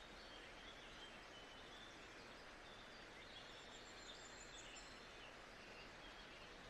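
Faint nature-sound ambience: a steady soft hiss with scattered faint high bird chirps.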